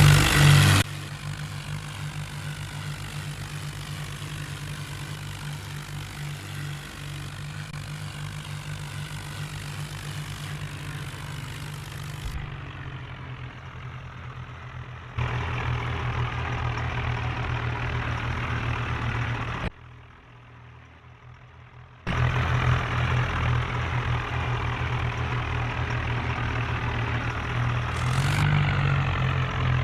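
Tractor engine running steadily at a low, even pitch, heard in several spliced takes that change level abruptly, with a quieter stretch a little past the middle.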